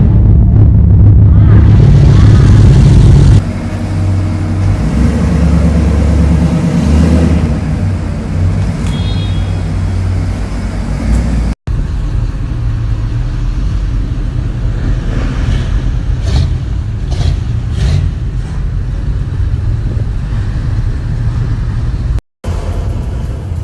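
Car engines running with a low rumble, loudest for the first few seconds and steadier and quieter after. The sound breaks off abruptly twice.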